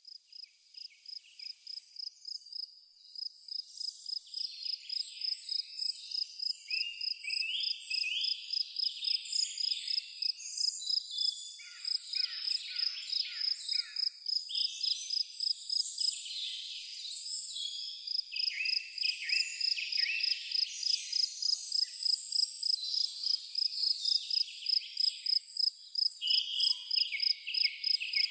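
Crickets chirping in a steady pulsing rhythm, with songbirds singing short phrases over them. The sound fades in over the first several seconds.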